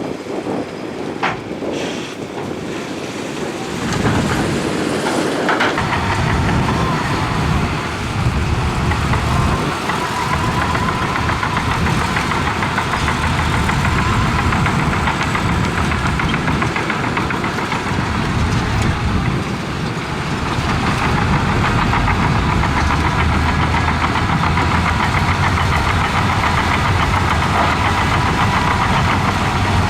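Heavy construction machine's diesel engine running under load, with a faint steady whine over it. It grows louder about four seconds in and stays loud.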